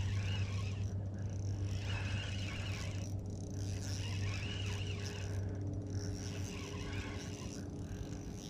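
Birds calling over the water, several short rising-and-falling cries every second or two, over a steady low hum.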